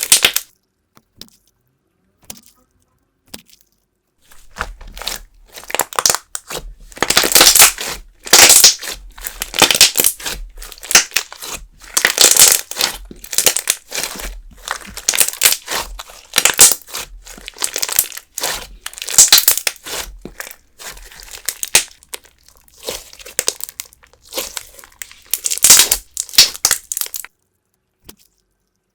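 Hands squeezing, pressing and stretching a thick putty-style clear slime, in irregular bursts of squishing. There are quiet pauses from about a second in to about four seconds, and again near the end.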